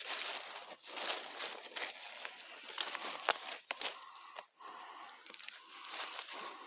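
Footsteps crunching and rustling through dry leaf litter and twigs on the forest floor, with irregular crackles and snaps.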